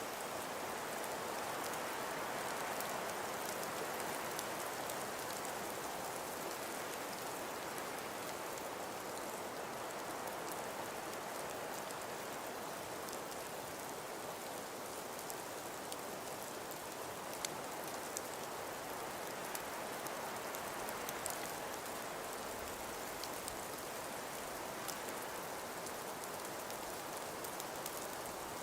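Snowstorm ambience: wind and falling snow make a steady, even hiss with scattered faint ticks.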